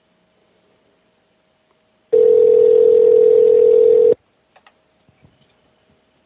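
Telephone ringback tone: one two-second ring burst of the steady tone heard while an outgoing call waits to be answered.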